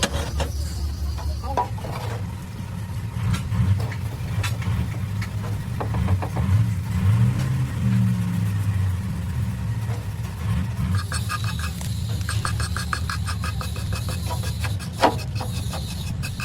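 A motor running with a steady low rumble and scattered knocks. About two-thirds of the way through, a fast, even ticking joins in.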